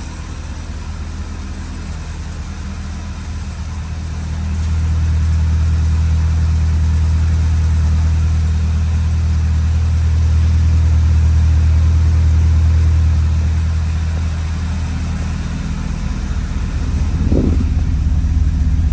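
2011 Audi A5's 2.0-litre turbocharged four-cylinder engine running at idle, a steady low hum that grows louder about four seconds in and eases back near fourteen seconds, with a brief rise and fall in pitch near the end.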